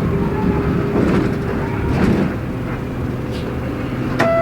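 Inside a moving route bus: the diesel engine running steadily, with body rattles and a few knocks. Near the end a steady, buzzer-like tone starts.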